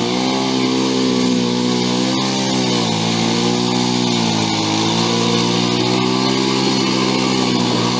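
An engine running steadily at a near-constant pitch, sagging slightly a couple of times.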